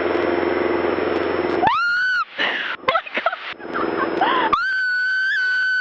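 A steady rushing noise, then two long, high-pitched screams, the first rising at its start and the second held level.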